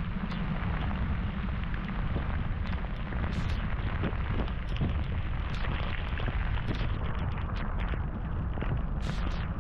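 Heavy rain falling steadily, a dense patter of drops over a continuous low rumble from wind on the microphone.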